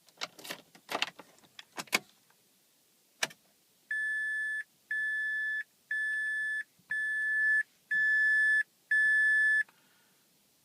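Keys jangling and clicking as a key goes into a 2006 Mazda 3's ignition, then the car's warning chime beeping six times, about once a second, each beep a steady high tone lasting under a second.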